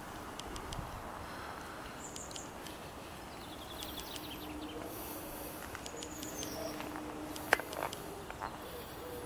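Small birds chirping and twittering over a steady background hiss. A faint low hum runs for a few seconds in the middle, and a single sharp click comes near the end.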